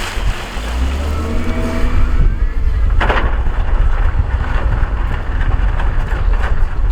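Heavy earthmoving machine's diesel engine running under load with a deep rumble. A sharp clank sounds about three seconds in.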